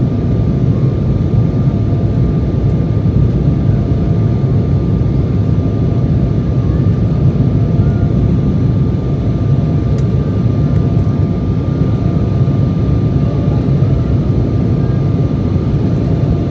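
Embraer E175's CF34-8E5 turbofan engines heard from inside the cabin behind the wing: a steady low rumble with a faint steady whine above it.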